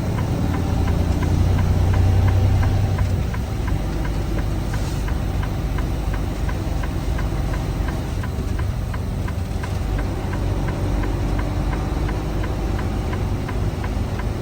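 Semi-truck's diesel engine running, heard inside the cab, with a steady light ticking over it. The low drone swells about a second in and eases off a few seconds later.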